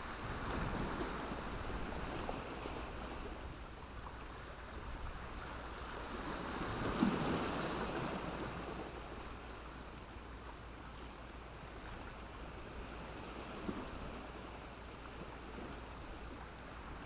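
Sea waves breaking and washing up a shore of sand and black stones, swelling loudest about seven seconds in. A steady low wind rumble on the microphone sits underneath.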